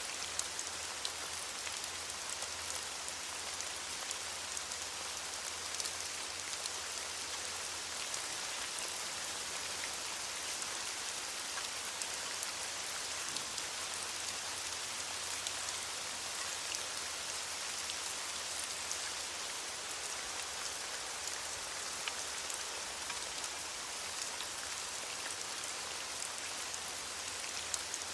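Steady rain falling on leaves, a dense even patter of drops with scattered individual drop ticks.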